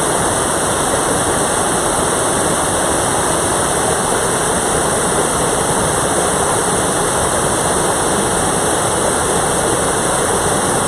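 Mountain valley stream rushing, a steady, loud, unbroken rush of water.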